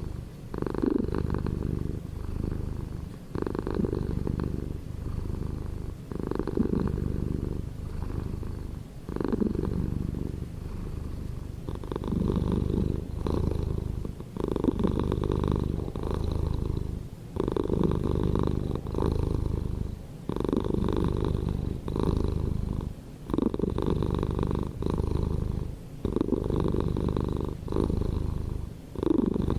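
Domestic cat purring close up, a low rumbling purr that comes in stretches of a second or two with brief dips between them as the cat breathes in and out.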